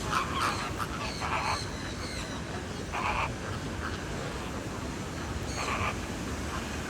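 Short, rasping bird calls repeated every one to three seconds, four in all, over a steady background hiss.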